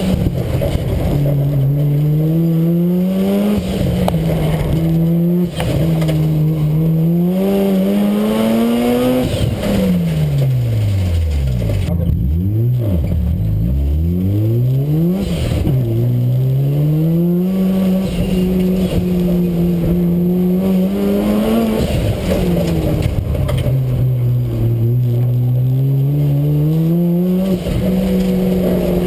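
Mazda RX-7's rotary engine heard from inside the stripped cabin, revving up and dropping back over and over under hard acceleration and lifts. About ten seconds in the revs fall low, then climb again.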